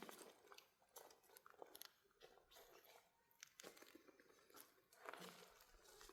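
Near silence with faint, scattered crackles and rustles.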